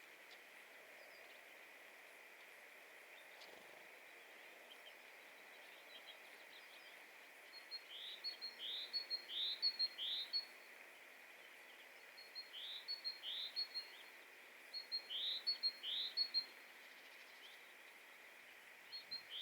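A small songbird singing in three short phrases of quick, rising whistled notes, with faint scattered chirps before them.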